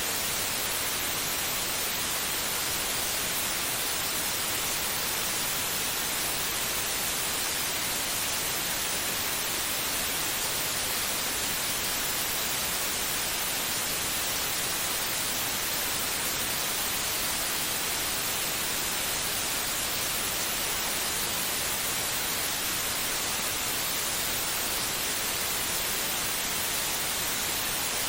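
Steady white noise, an even unbroken hiss with no rhythm or change, played to calm a baby to sleep.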